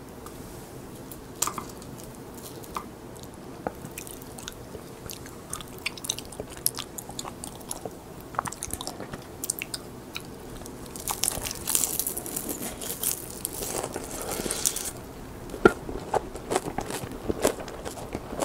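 Crisp seasoned laver (gim) being bitten and chewed close to the microphone: scattered crackly crunches, with a denser run of crunching a little past the middle.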